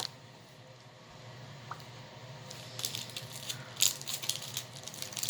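Crinkling and rattling of a snack wrapper being handled, in quick crisp rustles starting about halfway through.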